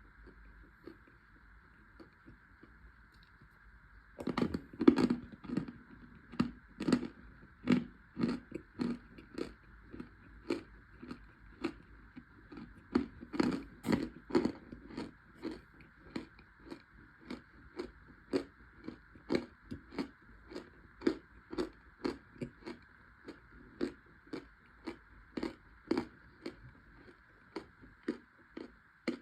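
Close-miked chewing of crunchy baked cornstarch chunks. About four seconds in, a steady run of crisp crunches begins at roughly two a second, loudest at the start.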